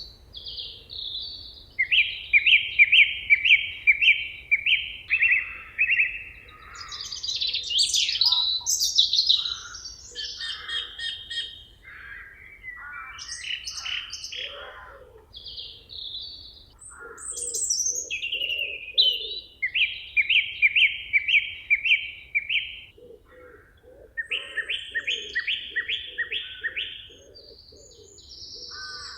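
Several songbirds singing together in a forest chorus of chirps and whistles. One bird repeats a short, fast phrase of about seven even notes several times. A fainter, low, pulsing call comes in and out underneath during the second half.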